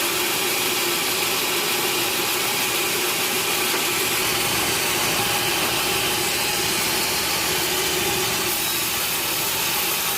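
Sawmill saw running steadily through a log, a continuous hissing cut over machine hum. The hum drops away near the end while the cutting goes on.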